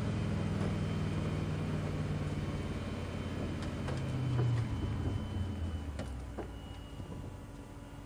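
Rally car engine heard from inside the cockpit, dropping in pitch as the car slows, with a brief rev about four seconds in before it fades toward a low idle. A couple of sharp clicks near six seconds in.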